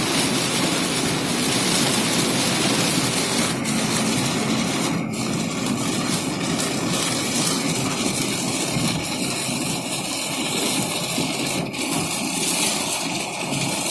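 Heavy rain pelting a car, a steady dense hiss, with the car's running noise underneath.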